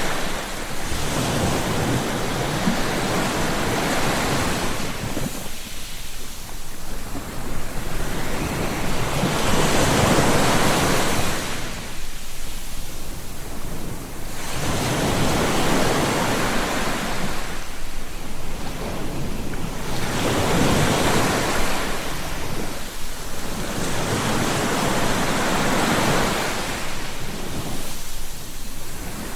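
Sea surf: waves breaking and washing in, the rush swelling and falling back about six times, every four to six seconds.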